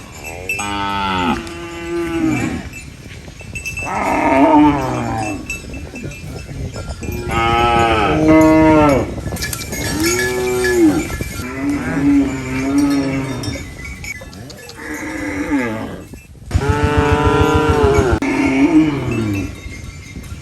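Cows mooing over and over, about seven long calls in a row, each bending up and down in pitch, some overlapping one another.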